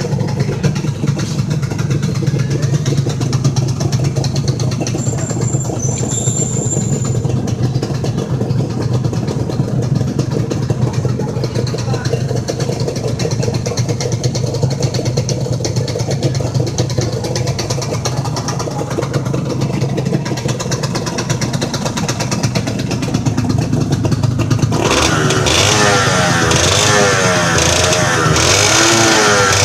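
Modenas Dinamik 120's two-stroke single-cylinder engine idling steadily as it warms up after long standing. Near the end the throttle is blipped again and again, the revs rising and falling.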